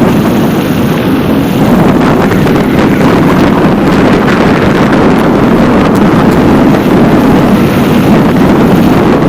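Loud, steady wind buffeting the camera's microphone while the bicycle moves at speed.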